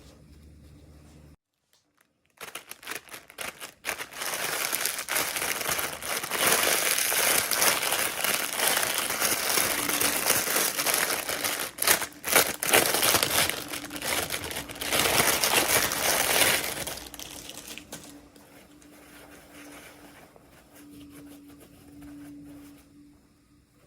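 Plastic toy packaging crinkling and crackling as it is handled and torn open, starting about two seconds in and fading to quieter rustling after about seventeen seconds.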